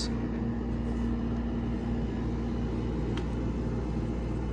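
Mid-1960s Westinghouse Panelair 6,000 BTU window air conditioner running with its fan and freshly started compressor: a steady low rumble of motor and airflow, with a hum that fades out about two seconds in.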